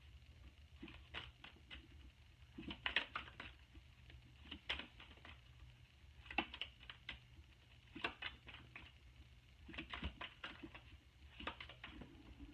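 Tarot cards being shuffled and handled: bunches of light, quick clicks and taps as the cards riffle, flick and slap together, with a low room hum beneath.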